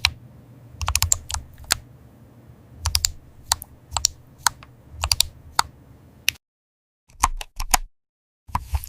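Computer keyboard keys typed in short irregular bursts of crisp clicks, with brief pauses between bursts.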